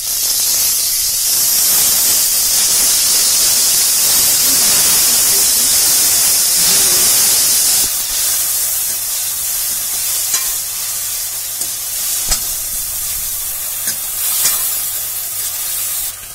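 Chopped tomatoes hitting hot oil and fried onion-masala in a kadhai, a loud sizzle that starts suddenly. After about eight seconds the sizzle eases a little, and a metal ladle clinks against the pan a few times as the mixture is stirred.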